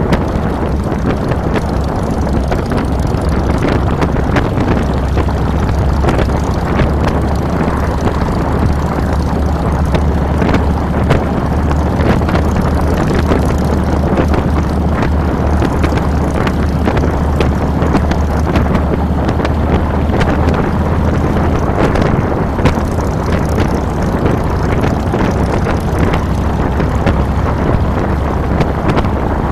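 Harley-Davidson Fat Boy's Twin Cam 96 V-twin engine running steadily while riding, heard close from a handlebar-mounted camera with wind rushing over the microphone.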